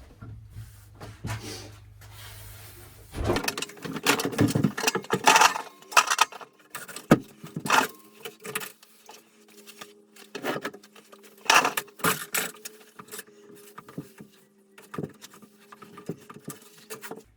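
Irregular knocks, clunks and scrapes as a pressurized water tank and its pipe fittings are handled and set into place. The knocks come in quick clusters from about three seconds in.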